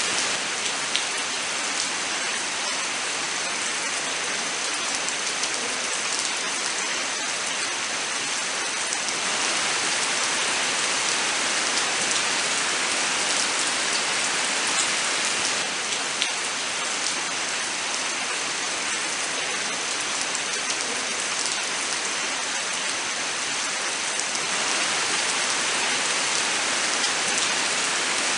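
Steady rain falling in a forest: a dense, even hiss with scattered sharper drop ticks.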